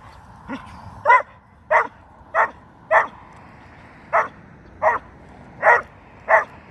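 Doberman puppy barking: one faint bark, then eight sharp, loud barks at a steady pace with a short pause midway.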